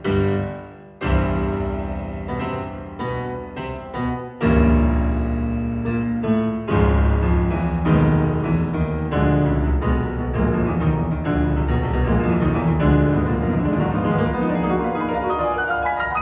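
Recorded piano music played back over Fyne Audio F500SP loudspeakers, with a deep bass line coming in about four seconds in.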